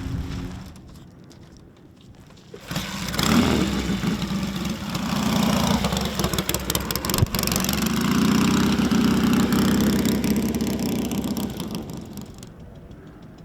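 Motorcycle engine catching suddenly about three seconds in, then revved up and down twice before dying away near the end.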